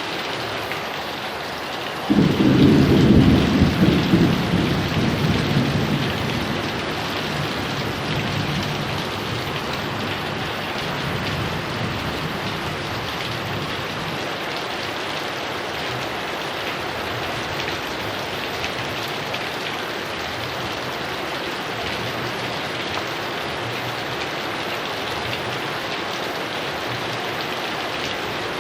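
Heavy rain falling steadily. About two seconds in, a sudden clap of thunder breaks in and rumbles on, fading away over the next several seconds.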